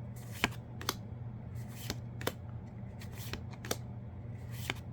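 Trading cards handled one by one while going through a freshly opened booster pack: short, sharp card clicks come at irregular intervals, about one or two a second, over a steady low hum.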